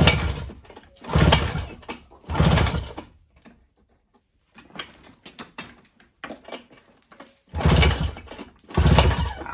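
Mercury 2.2 hp outboard motor being pull-started by its recoil starter rope: five hard pulls, three in quick succession and two near the end, with light clicking and rattling of the motor between them. The engine cranks but never fires.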